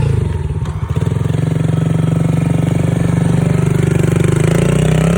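Pit bike engine running close by at steady, fairly high revs, with a brief dip about a second in and the revs climbing near the end.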